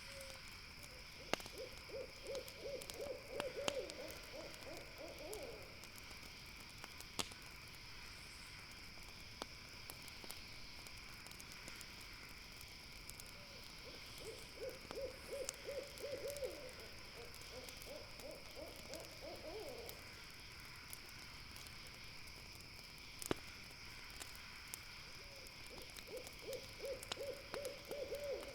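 An owl calling three times, each call a run of quick hooting notes, over a steady high chorus of night insects. A few sharp pops from a crackling campfire stand out.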